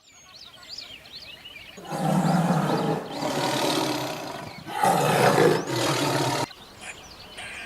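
An animal giving three long, loud, rough calls in a row, the last one cut off suddenly, with birds chirping faintly before and after.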